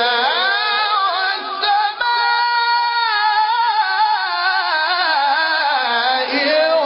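Melodic Quran recitation by a single voice, drawing out long notes with wavering, ornamented pitch. A long held note in the middle slowly falls.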